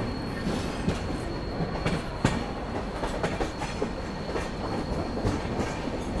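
Humsafar Express passenger coach rolling out of the station: steady running rumble with uneven clacks and knocks from the wheels over the rails, heard from the coach's doorway.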